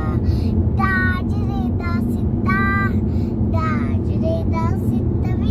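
A young child singing in short high-pitched phrases inside a car, over the steady low rumble of the car running.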